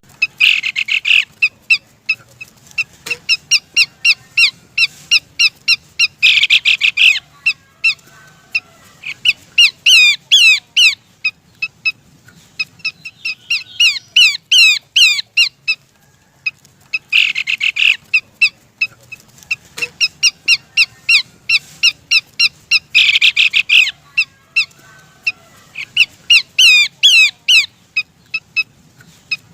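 Bird-lure recording of pelanduk semak (a small babbler) calls: rapid runs of sharp, high chirps and trills broken by short bursts of harsh chattering. The same sequence repeats about every 17 seconds. The calls are a female's, used to draw in males.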